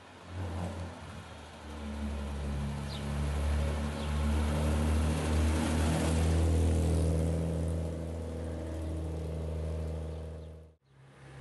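1963 Jaguar E-Type's 3.8-litre straight-six engine as the car drives past, growing louder to its closest point about six seconds in, then easing off as it pulls away. Near the end the sound cuts abruptly to another car's engine.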